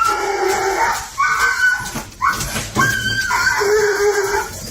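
A dog giving long, drawn-out vocal calls, about four in a row, each lasting around a second with a wavering pitch.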